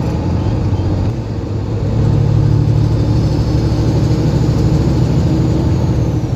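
Heavy truck's diesel engine running, heard inside the cab, with a steady low hum that grows louder about two seconds in.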